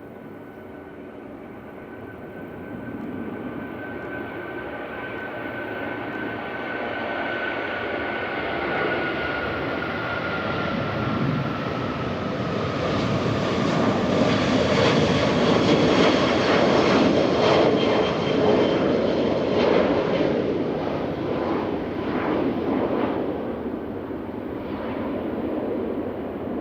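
Boeing 777 jet airliner taking off, its engine noise building to a peak about two-thirds of the way through and then fading. A whining tone falls slightly in pitch as the aircraft passes, with crackling around the loudest point.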